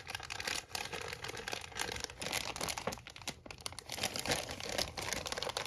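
Plastic packaging crinkling in the hands, with many small irregular crackles and clicks as model kit parts are handled.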